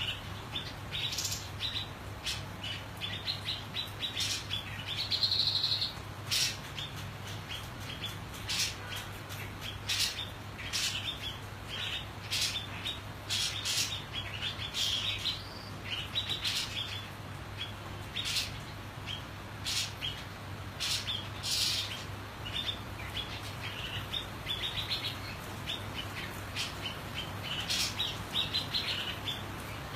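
White-chested babbler calling with many short, quick chirps throughout, over a steady low hum.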